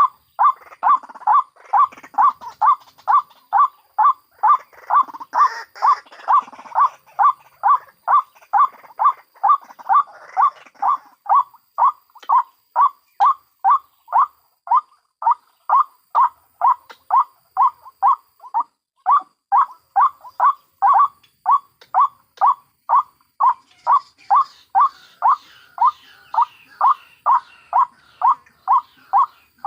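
White-breasted waterhens calling, one short call repeated evenly about twice a second, from a lure recording that mixes adults and chicks. Fainter, scratchier calls sit underneath in the first third and again near the end.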